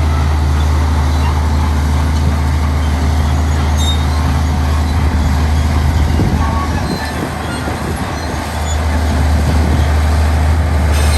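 Heavy diesel engine running with a steady low drone. It eases off about seven seconds in and picks back up about two seconds later.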